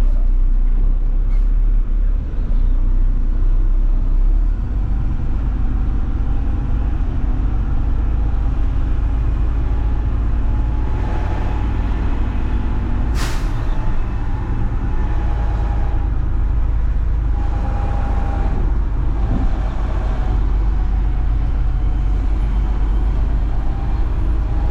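Front-load garbage truck's diesel engine running with a steady low rumble. About thirteen seconds in, a short, sharp hiss of air cuts through.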